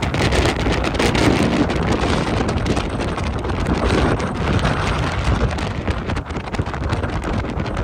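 Wind buffeting the microphone: a steady, loud rushing noise with gusty low rumble throughout.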